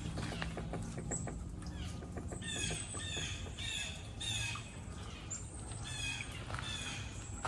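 Wild birds calling in woodland: many short calls that fall in pitch, repeated in quick runs and busiest in the middle.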